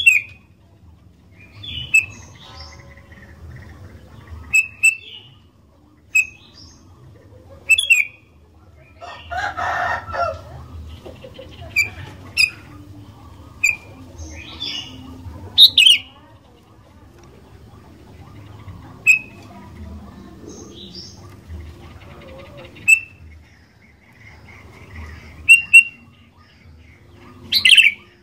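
Sooty-headed bulbul (kutilang) calling: short, sharp chirps repeated every second or two, some in quick pairs. A brief rustling burst comes about ten seconds in.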